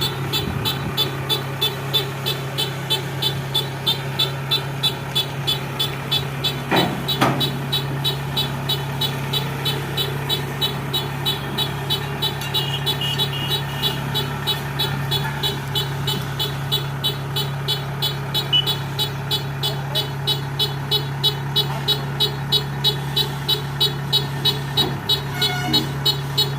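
Kubota track harvester running: a steady engine hum with a regular clatter about two to three times a second, and two sharp knocks about seven seconds in.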